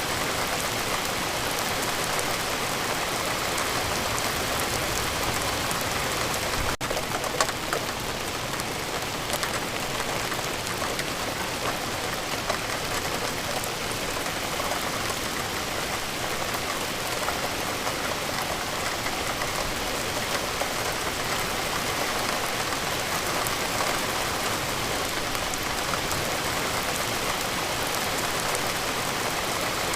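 Steady rain falling, an even, dense patter of drops with no let-up, broken by a split-second gap about seven seconds in.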